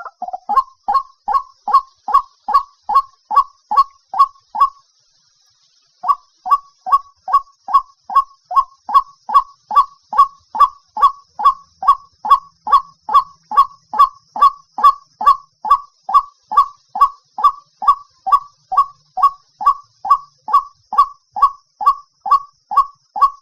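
White-breasted waterhen calling: a long run of short, evenly spaced notes, about two and a half a second, broken by a pause of about a second around five seconds in.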